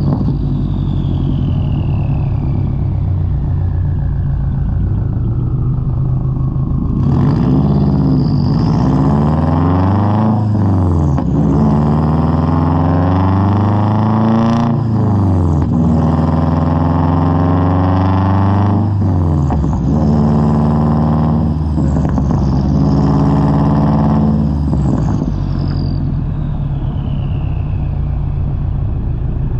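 Subaru WRX engine heard through a straight-piped Tomei exhaust. It runs steadily at first, then pulls hard several times in a row, its pitch climbing and dropping back at each gear change, before settling to a steady drone again. A high whistle falls in pitch near the start and again near the end.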